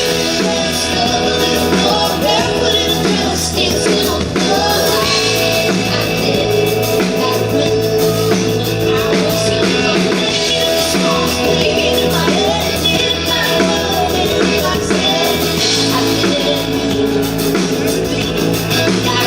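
Live band playing an upbeat rock song, with guitar, bass and melodic lines continuing without sung words for this stretch.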